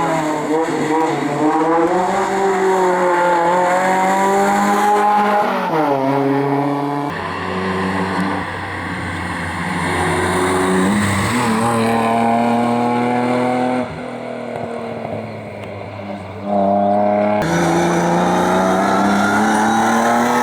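Racing car engines under hard acceleration, the pitch climbing and dropping back at each gear change. The sound changes abruptly a few times as one car gives way to another.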